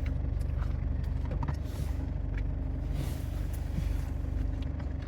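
A vehicle engine idling steadily with a low, even hum, with a few faint short knocks over it.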